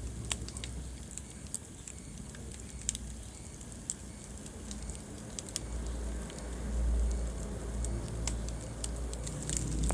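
Wood fire burning in a fireplace, with scattered sharp crackles and pops over a low roar of the flames that grows stronger in the second half.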